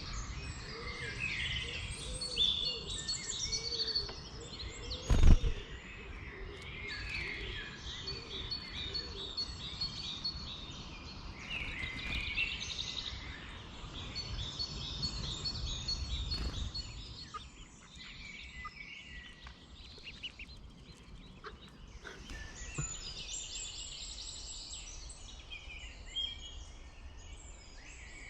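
Several birds singing, with overlapping short phrases and calls throughout. A low rumble underneath fades out a little past halfway, and a single loud knock comes about five seconds in.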